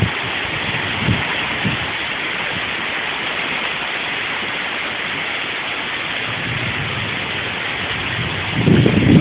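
Heavy rain pouring down in a steady hiss. A low rumble comes in near the end.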